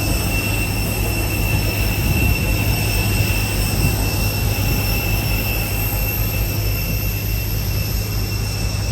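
Steady jet airliner noise: a low rumble under a steady high-pitched whine.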